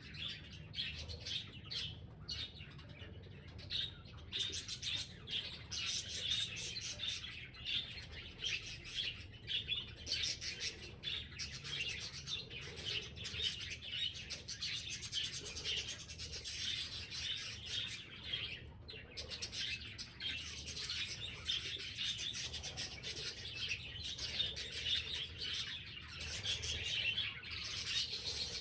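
Budgerigars chattering and warbling without pause.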